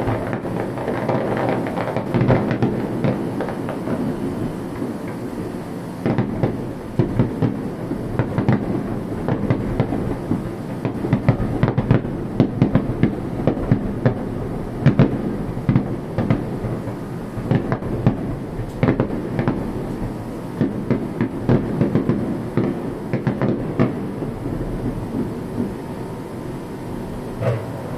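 Fireworks bursting and crackling in a dense barrage, with many sharp pops and bangs in quick succession.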